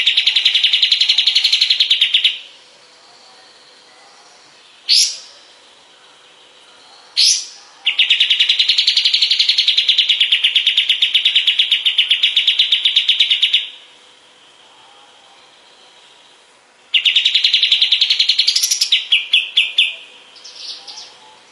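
Kapas tembak, a triller, singing. Its rapid, evenly pulsed trills last from about two to six seconds each, and two short upward-sweeping notes fall between them. The last trill breaks up into a few separate notes near the end.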